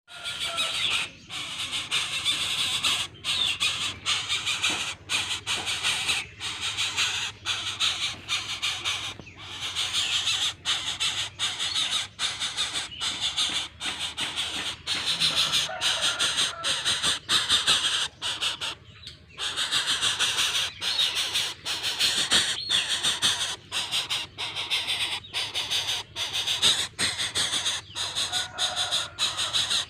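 Continuous shrill, harsh bird calls, squealing and squawking, cut by brief gaps about every second.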